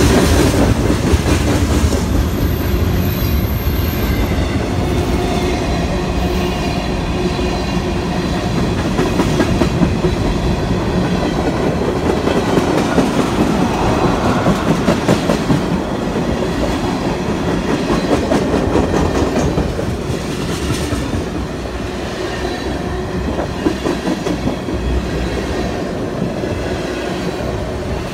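Freight tank cars of a Canadian National train rolling past close by: a steady rumble of steel wheels on rail, with groups of clicks recurring as the wheels cross rail joints.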